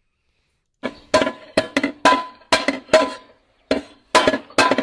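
A metal saucepan beaten repeatedly with a ladle: sharp ringing clangs, about three or four a second in an uneven rhythm, starting about a second in.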